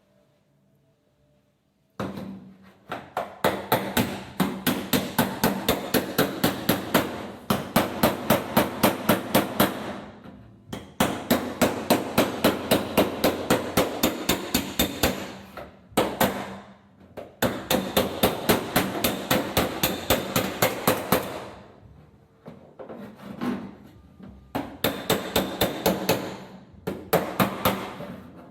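Panel-beating hammer striking a steel quarter panel against a dolly, smoothing the welded-in patch with rapid, even taps of about three to four a second. The taps ring and come in four runs with short pauses between them.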